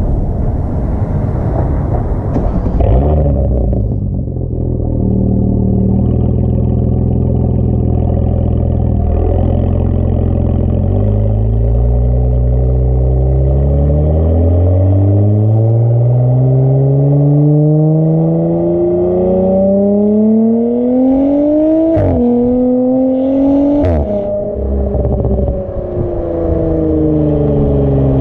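A 2018 Audi S5 B9's turbocharged 3.0-litre V6 running through an AWE Track aftermarket exhaust. After a noisy rush in the first few seconds it holds a steady note, then pulls hard with the pitch rising for about ten seconds. Two quick pitch drops near the 22- and 24-second marks sound like upshifts, and the note then falls away as the car slows.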